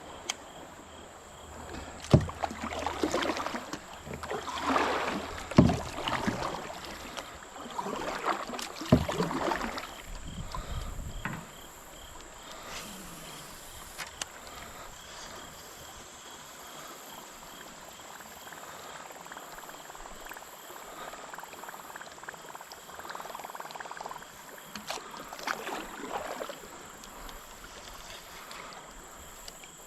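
Kayak paddle strokes in the water: three loud splashing strokes in the first ten seconds, each starting with a sharp knock, then a quieter drift with a couple of softer strokes later. A steady high-pitched insect buzz runs underneath.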